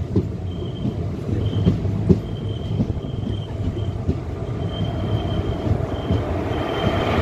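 Express passenger train running, heard from the open doorway of a coach: a steady rumble with irregular wheel knocks over rail joints and a faint high tone that comes and goes. It grows a little louder near the end as an oncoming electric locomotive on the next track draws near.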